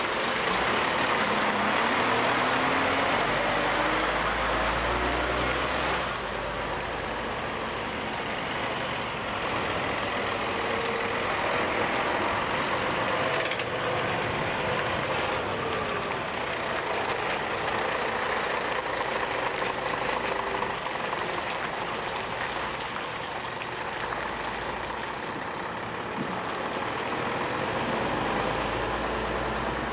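Heavy diesel truck engine running at a building site, its pitch rising over the first few seconds and again in the middle, over a steady rushing noise.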